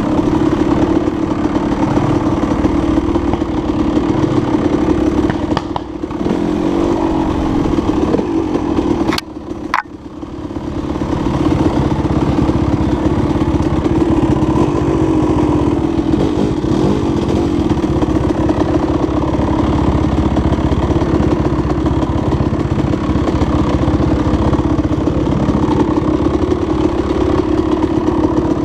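Dirt bike engine running steadily. About nine seconds in the sound drops away briefly, with a couple of sharp clicks, then comes back.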